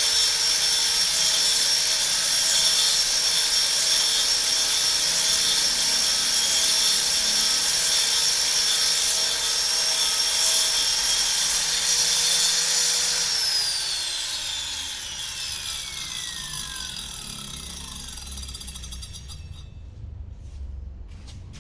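Fishing-lure duplicator's cutting motor running steadily at high speed, then switched off about 13 seconds in. It spins down with a falling whine that fades out over several seconds.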